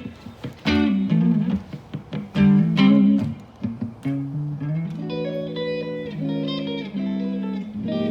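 Live guitar playing without singing: single plucked notes and short phrases, then ringing, sustained chords from about five seconds in.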